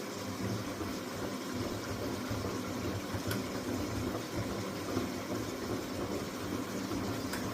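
Miele W423 washing machine running mid-cycle: a steady motor hum with water noise from the drum, and a couple of faint clicks.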